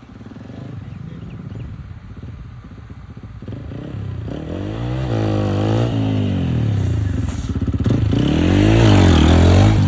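Motorcycle engine running low and steady, then revved up and back down twice, its pitch rising and falling, getting louder toward the end.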